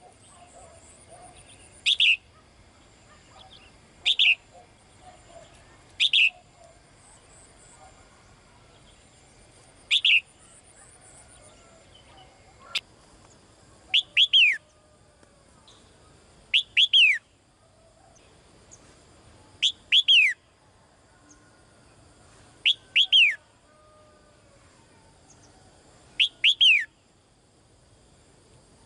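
Female caged songbird calling to a male: sharp, repeated calls, each a quick downward-sweeping whistle, coming about every two to three seconds. About halfway through, the calls change from single notes to quick doubled or tripled notes. Fainter bird chirps sound in the background.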